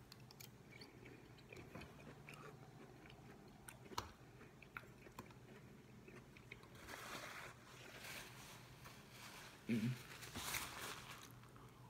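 Close-up chewing of soft cooked yellow squash with bell peppers and onion: faint wet mouth clicks and smacks, with a sharper click about four seconds in and louder chewing near the end.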